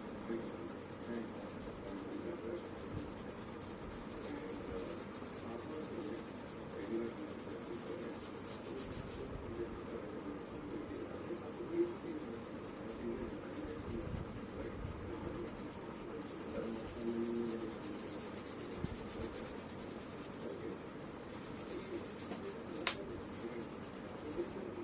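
Colouring strokes rubbing lightly on paper, a steady faint scratching. A short high squeak near the end.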